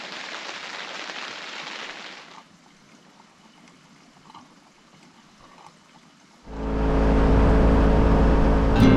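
Steady rain falling, cut off suddenly about two seconds in and followed by a faint, quiet stretch. A loud, steady low rumble begins near the end.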